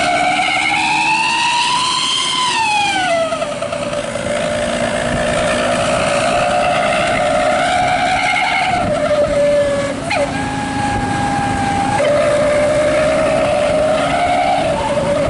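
Bus's 'wolf' exhaust whistle (knalpot srigala) howling, its pitch following the engine revs: a long rise to a peak about two seconds in, then a fall into a steadier wavering howl. About ten seconds in it breaks off briefly and holds a higher note for about two seconds before dropping back.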